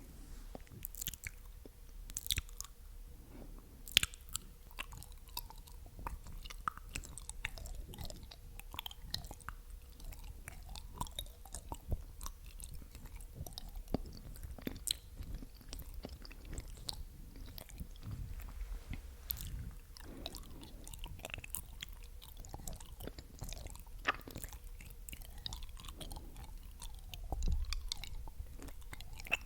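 ASMR mouth sounds: a steady stream of small, irregular wet clicks and smacks from the tongue and lips.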